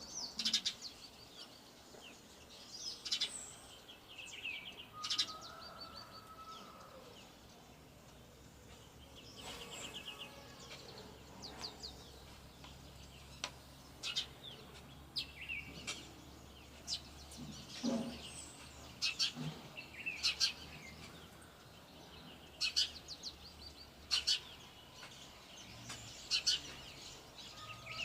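Small songbirds chirping and trilling: many short, sharp calls, a few every couple of seconds, some in quick rapid series, over a faint low steady hum.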